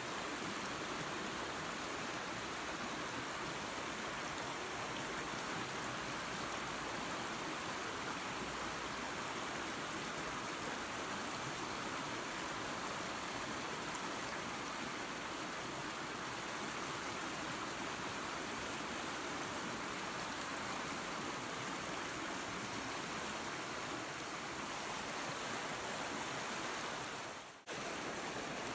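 Waterfall and creek water rushing steadily. Near the end the sound drops out for a split second, then resumes.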